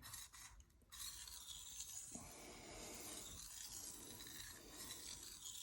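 Knife blade sliding lightly across a Shapton Rockstar 1000 whetstone: a faint, steady scraping hiss that starts about a second in.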